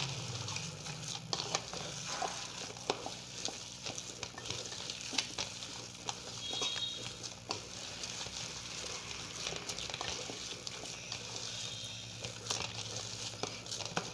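Coarse-ground urad dal dough being mixed with spices, ghee and salt in a bowl: a steady run of small, irregular wet clicks and crackles.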